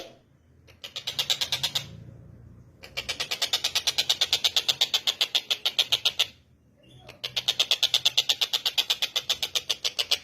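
Tengkek buto, a kingfisher, calling in fast rattling runs of sharp high notes, about seven a second. There are three runs, broken by short pauses about a second in and again past the six-second mark.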